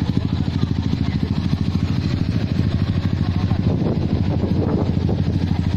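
Motorcycle engine idling with a steady, even rapid pulse; faint voices in the middle.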